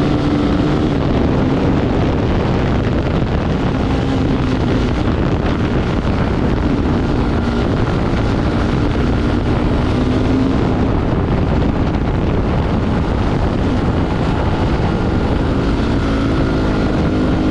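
Off-road vehicle engine running hard at speed, its note rising and falling with the throttle, with wind buffeting the microphone.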